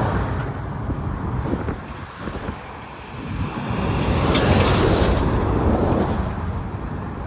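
Highway traffic passing close by: one vehicle's tyre and engine noise fades out, then another approaches, passes about four to five seconds in and fades away.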